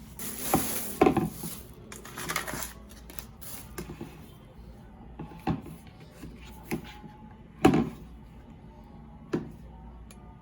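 Irregular knocks and clatters of kitchen items being handled, dishes, utensils or cookware set down on hard surfaces, about eight in the space of ten seconds.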